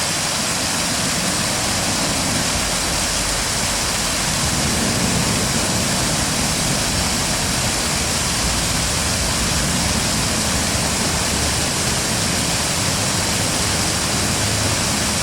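Steady rush of fast-flowing stream water, an even, unbroken noise.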